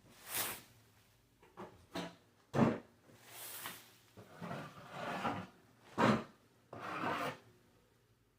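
Hand tool rubbing over a hard surface in about eight irregular rasping strokes, some short and sharp, some drawn out; the strokes stop shortly before the end.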